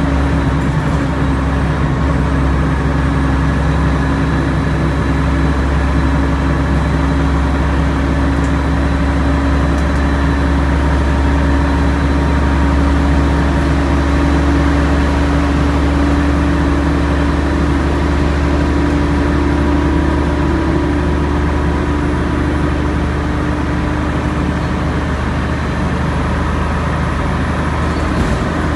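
Alexander Dennis Trident Enviro 500 double-decker bus with ZF gearbox pulling uphill: steady heavy engine drone with a whine laid over it, the 'airplane sound'. One tone sinks a little in pitch in the later part.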